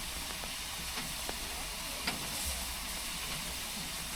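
Steady hiss of steam from a standing German class 01 express steam locomotive, with a low rumble underneath and a few faint clicks.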